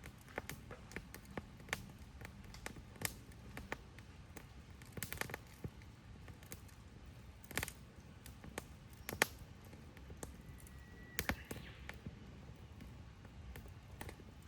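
Wood campfire crackling: irregular sharp pops and snaps of burning wood over a faint low rumble, with a short high whistle about ten seconds in.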